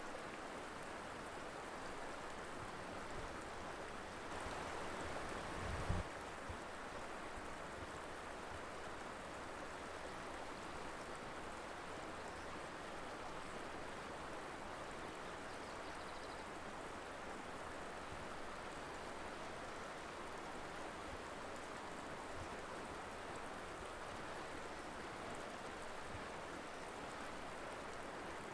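Colorado River flowing: a steady rush of moving water. About six seconds in there is a brief louder swell ending in a short low thump.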